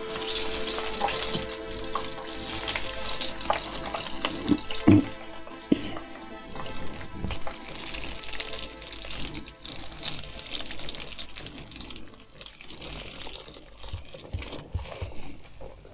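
Breaded chicken nuggets frying in hot oil in a pan: a steady hissing sizzle, loudest in the first half and dying down after about ten seconds, the sound of water cooking out of the chicken. A few knocks and clatters of handling come over it around four to six seconds in.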